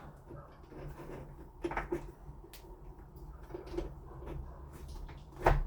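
Light clicks and knocks of the smart lock's alignment tool being worked off the door fitting, with a louder knock near the end.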